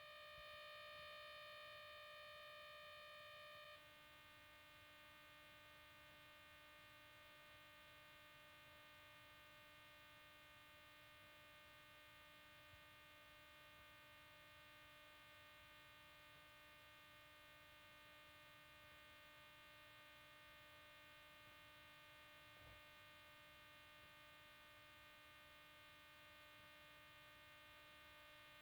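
Near silence with a faint steady electronic hum made of several high tones, whose pattern shifts once about four seconds in.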